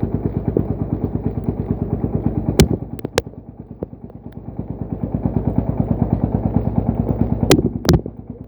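Single-cylinder horizontal diesel engine of a công nông farm truck chugging in a fast, even beat; it eases off about three seconds in and builds back up. Sharp clanks are heard twice a little before the middle and twice near the end.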